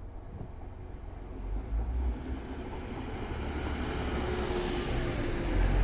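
TransPennine Express Class 185 diesel multiple unit running through the station, its engine and wheels on the rails building from a low rumble to a loud passing roar as it draws level. A brief high hiss comes about five seconds in.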